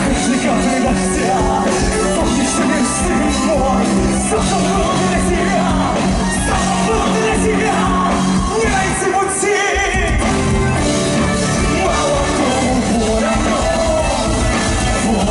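Rock band playing live and amplified, with a singer's voice over guitars, bass and drums. The low end drops out for a moment about nine seconds in, then the full band comes back in.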